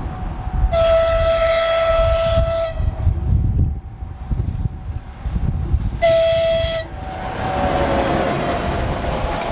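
MPT6 diesel track motor car sounding its horn: a long blast of about two seconds, then a short one a few seconds later. After the second blast comes the noise of the vehicle running past, its tones falling in pitch. Low wind rumble runs under it all.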